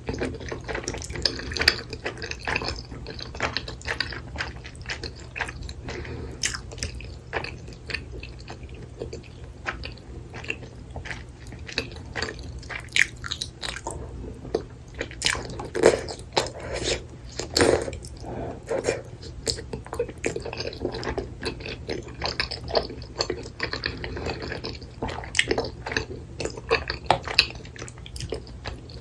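Close-miked eating sounds: a person chewing spicy tteokbokki rice cakes and noodles in thick sauce, with many irregular wet, sticky clicks and smacks of the mouth and food.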